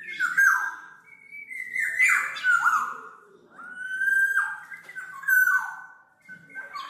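Black-naped oriole (kepodang) singing a series of fluty whistled phrases, about four in all, each a clear whistle that ends in a quick downward slur.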